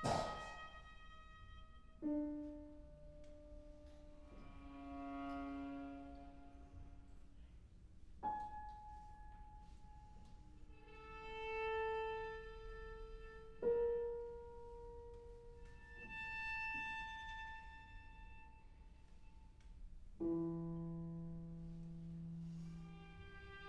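Viola and piano playing a slow, quiet passage of classical chamber music. Long held notes swell and fade, with a new note or chord starting every few seconds.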